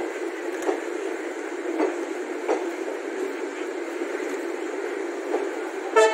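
Passenger train coaches rolling past with a steady rumble, the wheels clicking sharply over rail joints every second or so. A short horn blast starts right at the end.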